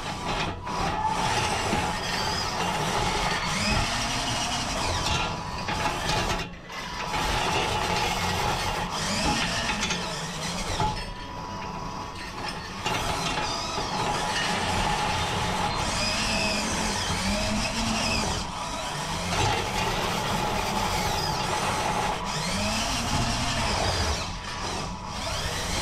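370 geared DC motors of a homemade 4x4 RC car whining through their reduction gearboxes as it drives, the pitch rising and falling again and again with the throttle.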